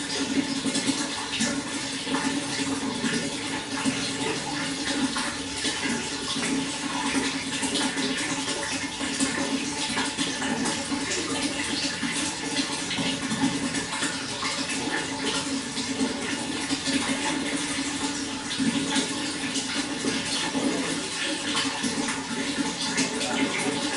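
Running water flowing steadily, an even, unbroken rush with a fine flickering texture that never pauses or changes.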